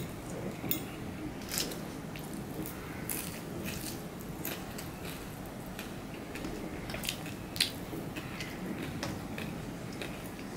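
Close-up eating sounds of a person chewing rice and shredded fried potato eaten by hand: wet chewing and mouth sounds with scattered sharp clicks, the sharpest about three quarters of the way through.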